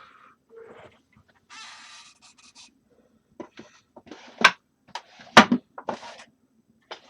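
Small tools and parts being handled and set down: short rustles and several sharp knocks, the loudest about four and a half and five and a half seconds in.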